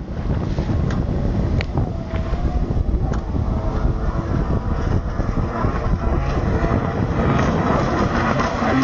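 Kawasaki 1200 jet ski's engine running steadily, with a few sharp knocks in the first few seconds and a brighter, noisier sound building from about halfway through.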